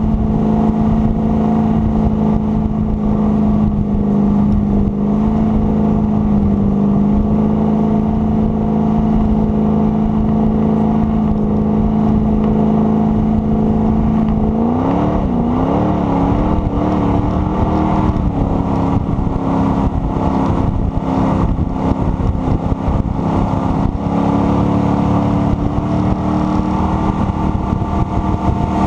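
Jet boat engine running steadily at speed over a rushing noise. About halfway through, the engine note wavers up and down a few times, then settles a little higher.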